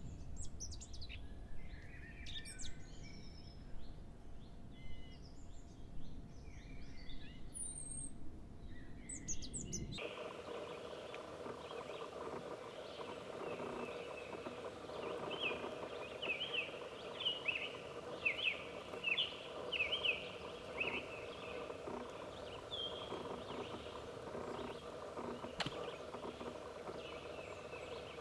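Various small birds chirping over a low wind rumble for the first ten seconds. Then a summer tanager sings repeated short, rapid phrases over a steady background hum, most densely in the middle and again near the end.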